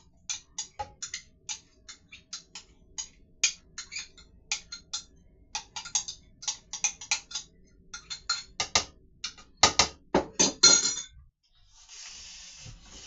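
A spoon clicking and tapping irregularly against a container, a few times a second and loudest near the end, as cottage cheese is scooped out. A short hiss follows just before the end.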